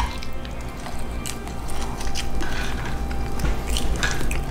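A person chewing and biting into a piece of roast goose with the skin on, close to the microphone, giving scattered short sharp clicks. Background music plays underneath.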